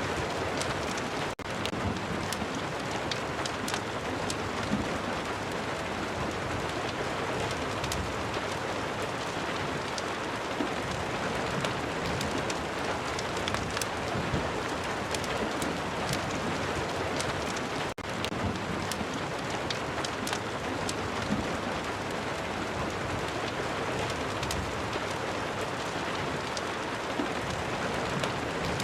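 Steady rain mixed with a crackling wood fire: an even rain hiss with frequent small sharp crackles scattered through it. The sound cuts out for an instant twice.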